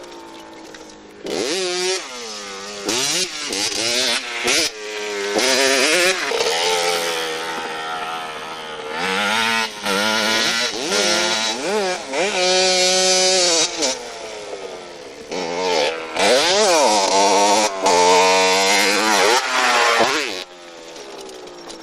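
Motorcycle engine revving, its pitch climbing and falling again and again with short breaks between, quieter in about the first second and near the end.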